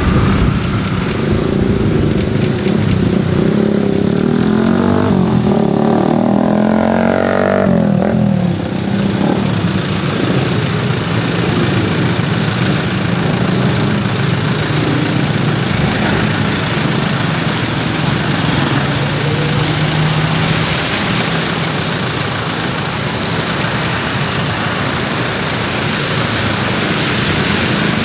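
Jet aircraft engines running loud and steady, with a sweeping whoosh between about four and eight seconds in, as of a plane passing.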